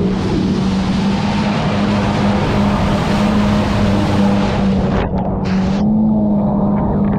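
Jet ski engine running at a steady speed under a rush of wind and water spray. The rush mostly falls away about five seconds in, while the engine keeps running.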